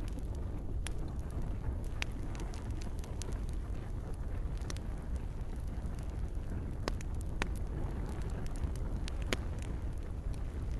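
Campfire crackling: irregular sharp pops and snaps from the burning wood over a steady low rumble of the flames.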